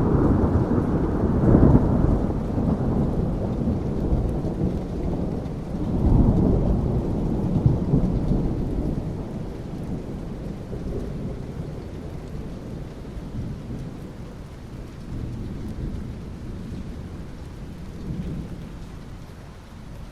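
Thunder rumbling over steady rain. A deep roll peaks in the first two seconds, swells again about six seconds in, then fades away under the hiss of the rain.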